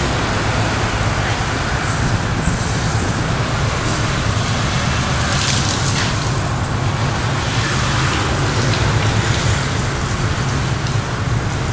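Water spraying onto a car's soaped paint during the rinse: a steady, loud hiss of spray over a low steady hum, running unbroken and stopping just after the end.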